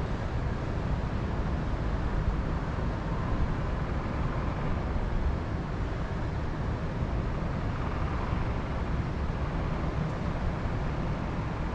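Steady wind noise, mostly a low rumble with a softer hiss above it.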